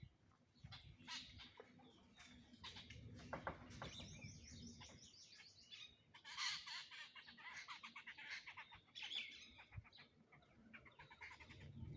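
Small birds chirping and twittering faintly, with a fast run of repeated high notes about four seconds in and a dense burst of chirps around the middle.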